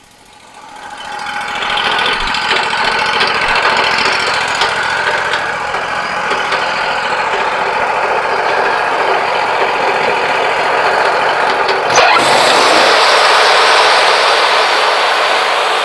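Wood-Mizer LT40 Wide band sawmill running and sawing yellow pine cants, the sound building up over the first two seconds. About twelve seconds in there is a sharp knock, and the sound turns louder and brighter.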